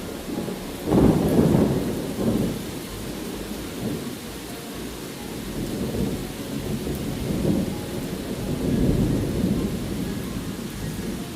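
Steady rain with a clap of thunder breaking about a second in and rolling on as a low rumble, swelling again several times later.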